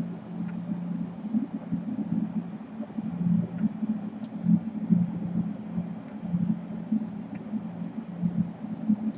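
Steady low hum of a small motor or fan, uneven and rumbling, with a few faint ticks.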